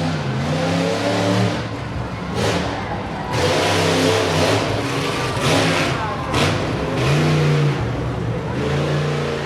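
Monster truck engines revving hard, their pitch rising and falling. Several loud rushes of harsh noise come in the middle.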